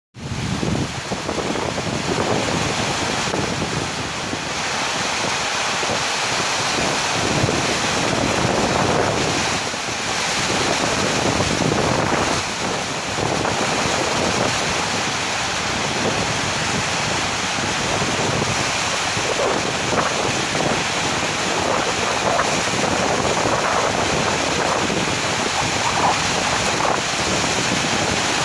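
Heavy rain in a strong wind, a steady loud hiss with gusts buffeting the microphone.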